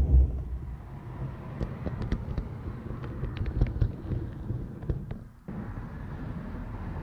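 OO gauge model train running on the layout track: a steady low rumble with scattered sharp clicks, the rumble dropping away abruptly and resuming at a lower level about five and a half seconds in.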